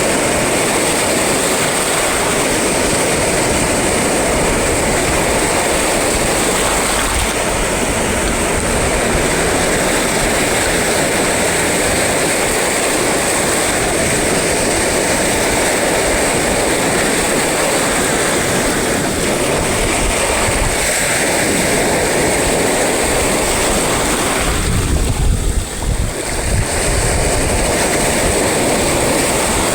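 Sea surf: waves breaking and washing on the shore in a steady loud rush, with a thin high-pitched hiss held over it. About 25 seconds in, a heavier low rumble comes in for a couple of seconds.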